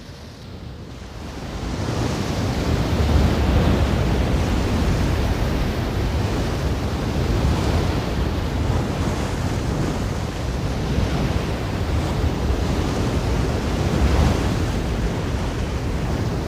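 Ocean surf washing in, a steady rush of waves that builds from a lull over the first couple of seconds and swells slightly now and then.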